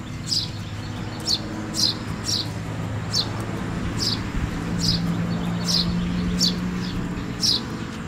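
A bird calling over and over, short sharp chirps that slide downward, about one or two a second. Under them is a steady low hum that swells about halfway through.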